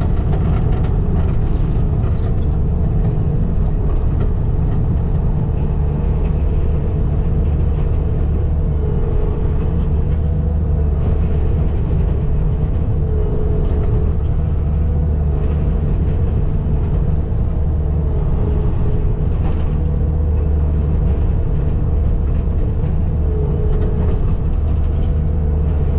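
Diesel engine of heavy equipment running steadily at a constant speed, a deep even drone.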